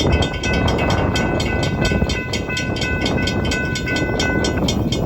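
Florida East Coast Railway intermodal freight train running by with a steady rumble. Over it a high ringing repeats evenly, about three strokes a second, and stops near the end.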